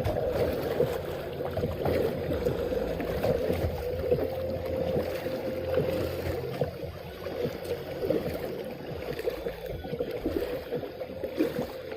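Kayak moving on the water, with irregular sloshing and splashing of water and paddle noise around the hull.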